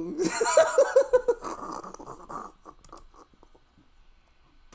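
A person laughing over a video call: a quick run of breathy 'ha' bursts about half a second to a second and a half in, dying away after about two seconds.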